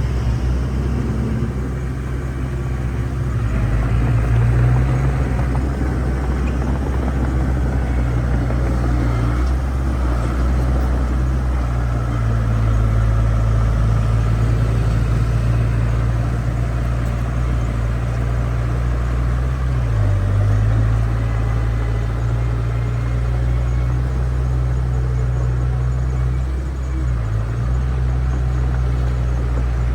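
Heavy diesel engine of a construction machine running steadily at a low, even note, with brief dips in engine speed about two-thirds of the way through and again near the end.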